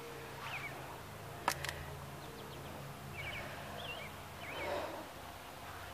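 Small birds chirping faintly in the background, with a single sharp click about a second and a half in and a soft rustle near the end.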